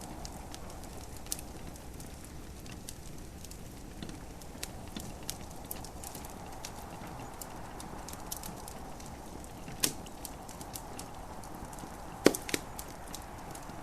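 Wood fire in a fireplace crackling, with scattered sharp pops and one loudest pop near the end, over a steady hiss of gentle rain.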